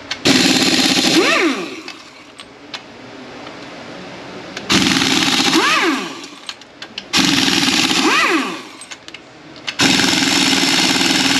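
Impact wrench loosening bolts, run in four bursts of one to three seconds each. In each burst a rattling hammer sound comes with a whine that rises and then falls in pitch.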